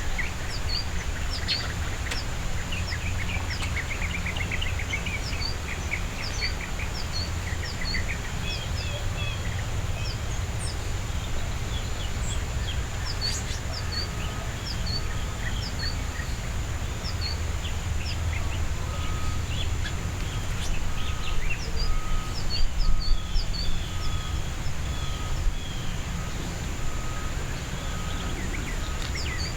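Several songbirds calling: many short high chips throughout, with a fast run of notes in the first several seconds. From about halfway, a single note repeats evenly about once a second. Underneath runs a constant low rumble and a faint steady high hiss.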